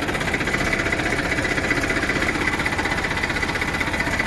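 Tractor diesel engine running steadily at an even speed, with a fast, regular firing pulse.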